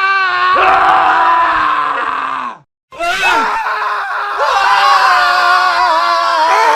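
Male screams: a long scream that cuts off suddenly about two and a half seconds in, then after a brief silence more screaming with several men's voices overlapping.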